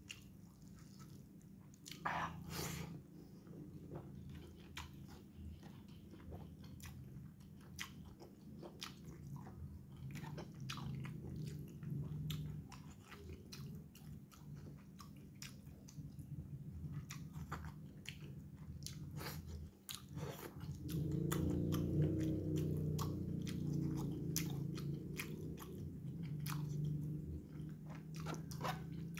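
Close-up chewing of rice and chilli-sauced egg eaten by hand, with many wet lip smacks and mouth clicks. The chewing grows louder about two-thirds of the way through.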